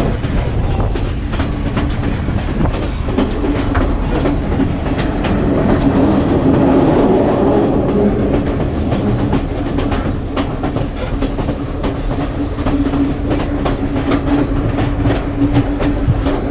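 Passenger train running, heard from inside a carriage at an open window: a steady rumble of wheels on rails with irregular clicks and clacks from the track. A steady low hum runs under it and swells a little around the middle.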